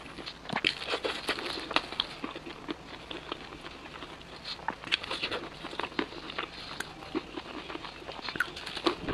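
Crispy fried chicken being bitten and chewed: a dense, irregular run of crunches and crackles.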